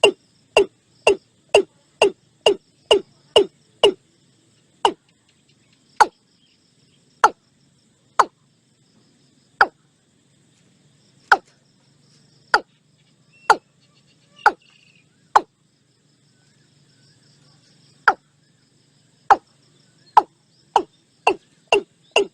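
Watercock calling: a series of short notes, each falling in pitch. They come about two a second at first, slow to one every second or so through the middle, then quicken again near the end. A faint high insect hiss and a low hum lie underneath.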